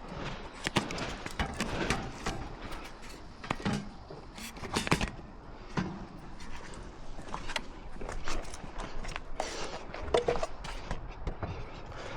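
A run of irregular clicks, knocks and clatter, like tools and parts being handled during work, with a few louder knocks spread through.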